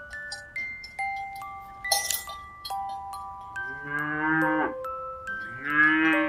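Two drawn-out animal calls, each under a second and falling in pitch at the end, the second the loudest, over a gentle chiming melody of held notes like a glockenspiel or music box.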